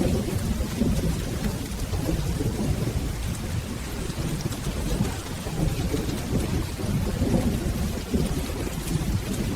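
Steady rain with soft, rolling thunder rumbling low and continuously underneath.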